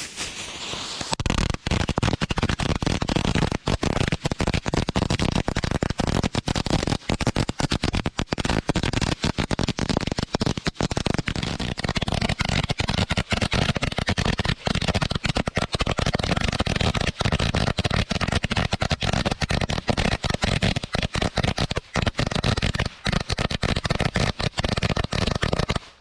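A long string of firecrackers going off in a rapid, continuous crackle of pops, then cutting off suddenly.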